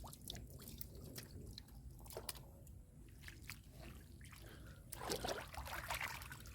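Faint wet clicks, drips and squelches of mud and water being worked by hand, with a louder wet swish about five seconds in.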